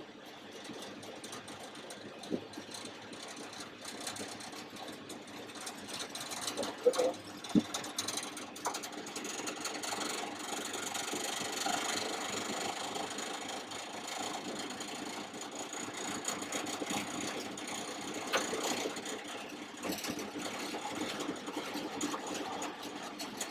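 Class 31 diesel-electric locomotive's English Electric engine running steadily while the train rolls, heard in the cab, with a rattling haze that grows louder a few seconds in and a few sharp clunks and knocks.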